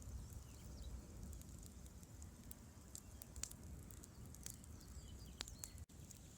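Campfire crackling: scattered sharp pops and snaps over a low, steady rumble.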